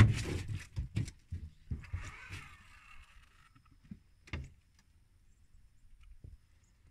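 Knocks and thumps of people moving about and handling gear on a fishing boat: a loud knock at the start, a run of thumps, a short rustling hiss about two seconds in, and a sharp knock a little after four seconds.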